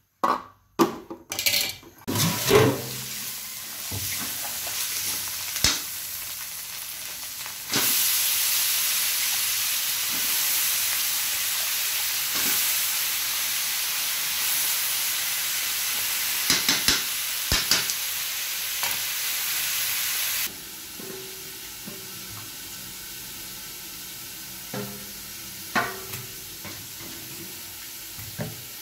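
Vegetables sizzling as they stir-fry in a metal pan, with a spatula knocking and scraping against the pan now and then. The sizzle gets louder about a quarter of the way in, then drops off suddenly about two-thirds in, leaving a quieter hiss.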